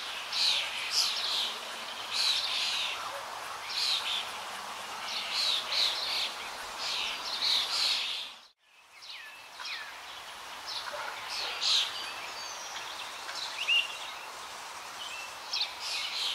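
Birds chirping, many short high chirps following one another over a faint hiss; the sound cuts out briefly about eight seconds in, then the chirping resumes.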